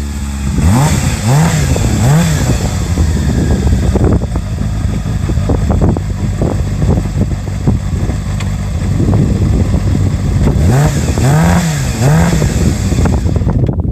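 Yamaha XJR400 inline-four motorcycle engine through twin mufflers, running under way with the engine note sweeping up and down three times in quick succession about a second in, holding steadier in the middle, then sweeping up and down three times again near the end.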